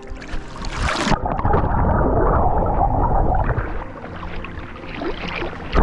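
Water splashing close to the microphone: a sharp splash about a second in, followed by a couple of seconds of heavy churning and sloshing that then dies down.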